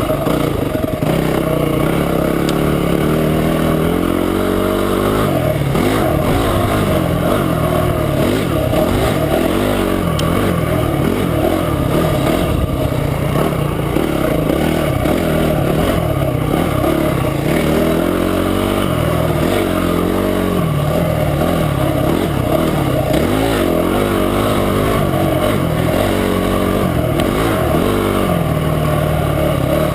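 Trail motorcycle engine running under way, its pitch rising and falling again and again as the rider throttles up and eases off.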